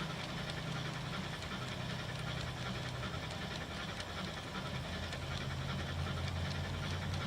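G scale three-truck Shay model locomotive running on its track, with a steady low hum and faint clicks.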